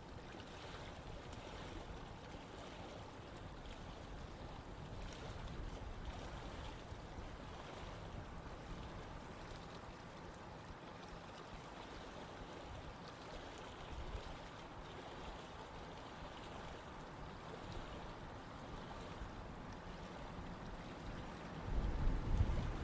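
Steady rush of running water in a stream. Near the end a louder low rumble of wind on the microphone comes in.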